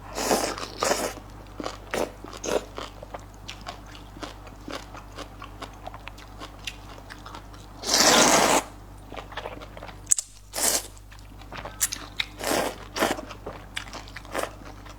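A person eating luosifen snail rice noodles close to the microphone: repeated crunching and chewing with many short mouth clicks, and one loud, longer noisy burst about eight seconds in.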